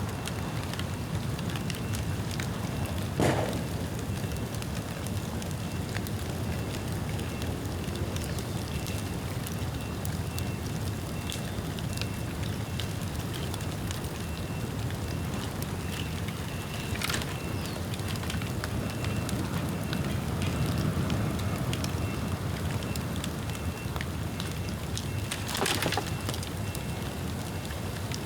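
Bonfire of rain-wet bamboo burning with a steady low rumble and crackling, broken by three sharp pops from the bamboo, the loudest a few seconds in and another near the end.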